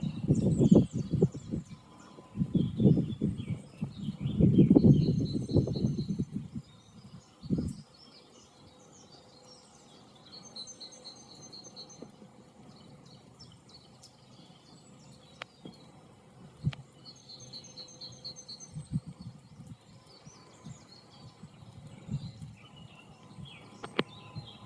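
Small songbirds singing, with the same high trill repeated several times. Through the first six seconds, gusts of wind buffet the microphone with low rumbles.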